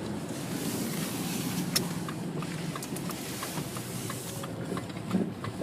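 Car driving on a snowy road, heard from inside the cabin: steady road and engine noise with a low hum. One sharp click comes near the second mark, and a faint regular ticking of about three a second runs through the middle.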